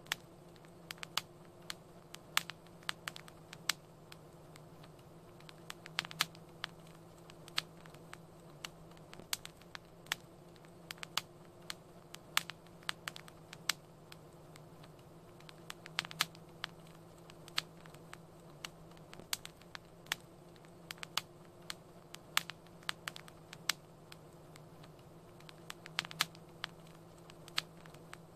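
Wood fire crackling: irregular sharp pops and snaps, several a second, over a steady low hiss and faint hum.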